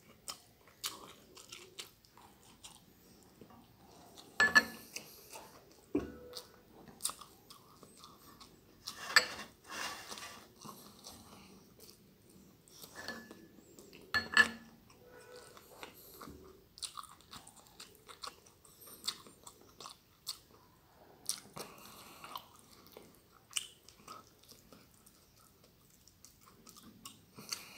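Close-up mouth sounds of a person chewing stir-fried glass noodles: wet smacks and small clicks, with a few louder sharp clicks about 4, 9 and 14 seconds in.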